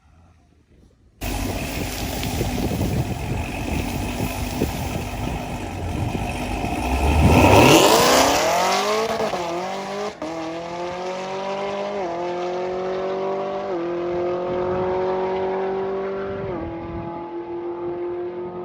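Cars racing at full throttle, including a supercharged Camaro ZL1 V8: engine noise starts abruptly, builds to a loud pass-by with a sharply falling pitch about seven seconds in, then settles into a steady engine note that changes pitch in steps a few times.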